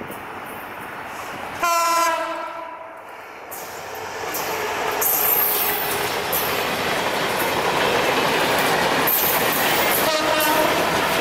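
EMD GT42ACL diesel locomotive's horn sounds one short blast just under two seconds in. The train's rumble then builds and stays loud, with wheels clattering over the rail joints. A second brief horn blast comes near the end.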